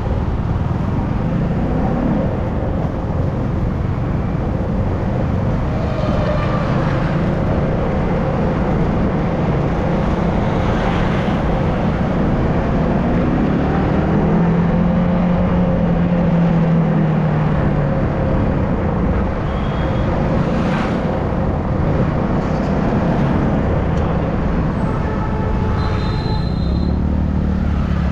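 Riding sound of a Yamaha R15 M's 155 cc single-cylinder engine under way, with a steady rush of wind and road noise. The engine note rises and falls about halfway through, and a vehicle horn sounds briefly near the end.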